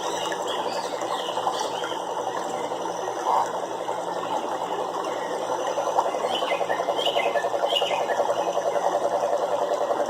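Frogs calling in chorus: a dense, fast pulsing trill that grows steadier and more prominent about halfway through, with short higher chirps over it.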